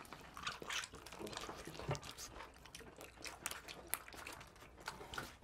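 Eating sounds at the table: people chewing pizza, with small wet mouth clicks and smacks scattered irregularly.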